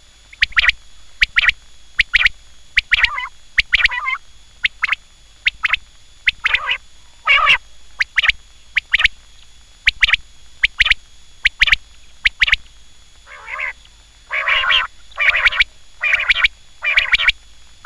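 Quail calling over and over in short, sharp notes, roughly one or two a second, some coming in quick clusters. A faint steady high-pitched tone runs underneath.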